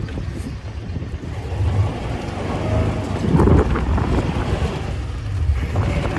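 Tractor engine running, with wind buffeting the microphone.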